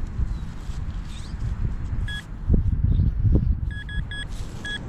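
Metal detector giving short high beeps, one about two seconds in and a quick run of four near the end, signalling a metal target, here a pull tab. Under the beeps are low thumps and scraping from digging in wet, muddy ground.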